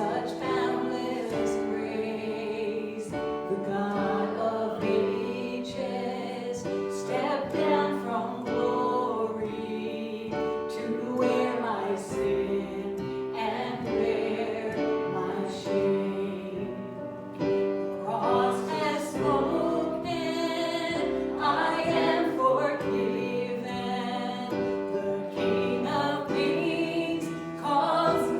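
Worship singing in a church service, voices carrying a slow melody over sustained keyboard chords.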